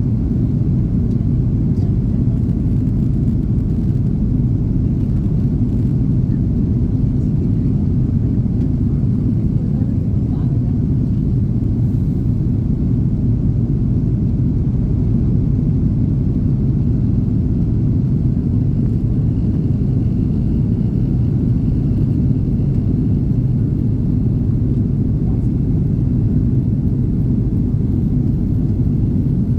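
Steady low rumble of engine and airflow noise heard inside the cabin of an Airbus A330-300 airliner.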